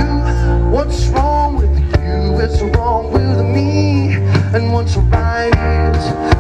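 Live band music: guitar over a steady bass and drum beat.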